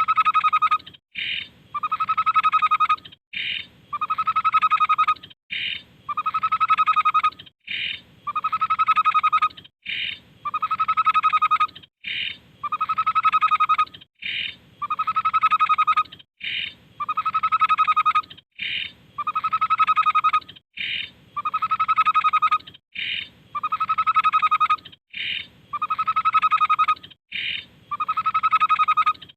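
Tepus babbler singing: a short high note followed by a longer, lower whistled note, the same phrase repeated evenly about every two seconds.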